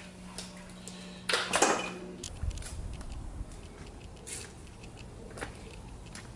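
Scattered clinks and knocks of hard objects being handled, loudest about a second and a half in, over a steady low hum that stops about two seconds in.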